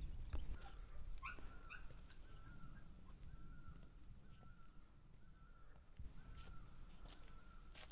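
Faint birdsong: a small bird gives a quick run of high, falling chirps, about three a second, which dies away about halfway through, over a low outdoor rumble. A sharp knock comes just before the end.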